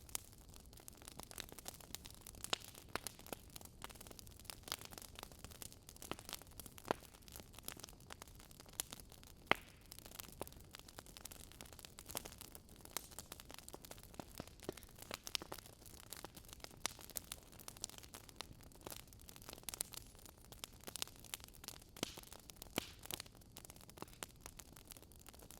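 Burning wood logs crackling: irregular sharp pops and snaps over a soft, steady hiss, with one louder pop about nine and a half seconds in.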